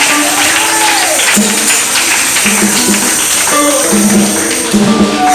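Live church music with a tambourine shaking steadily over sustained held notes, filling a pause in the preaching.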